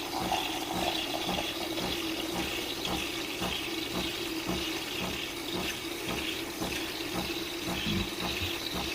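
De'Longhi Nespresso Gran Lattissima espresso machine dispensing hot milk foam from its milk jug: a steady hum with a regular pulsing about twice a second, over a hiss of frothing milk.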